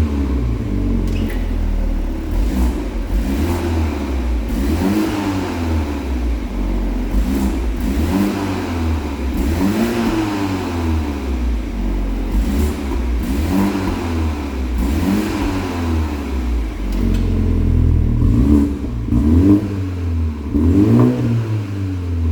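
BMW Z4 20i's 2.0-litre turbocharged four-cylinder engine revved again and again through an aftermarket variable-valve exhaust, its pitch rising and falling about once every second or two. The blips come quicker near the end.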